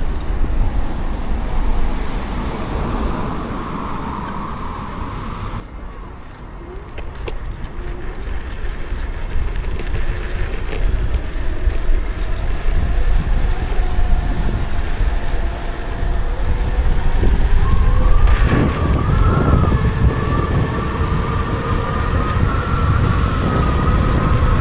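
Kukirin G2 electric scooter ride: wind and road noise rush loudly on the mic, easing off about six seconds in and then building again. A steady high electric-motor whine comes in about two-thirds of the way through.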